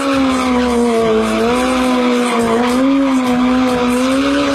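Yamaha R6 sport bike's inline-four engine held at high revs, its pitch wavering slightly up and down, with a hiss of tyre noise underneath.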